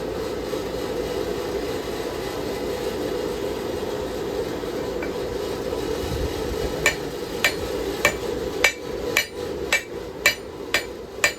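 A steady rushing noise, then about seven seconds in a hammer starts striking hot steel on an anvil: about nine sharp, ringing blows, a little under two a second, forging the bevel of a knife blade.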